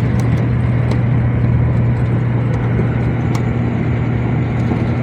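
Truck engine running steadily while driving, a constant low hum over road noise.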